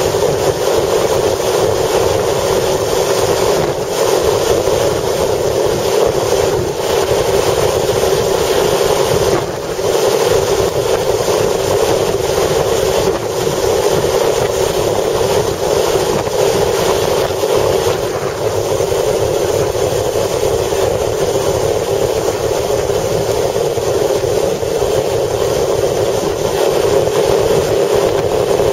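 Steady noise of a vehicle moving in strong wind, with gusts buffeting the microphone.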